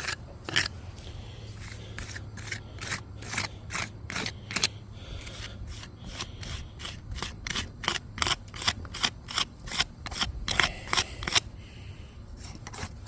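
Steel jointing tool scraping and slicking mortar into brick joints in quick repeated strokes, about two to three a second, pausing briefly near the end.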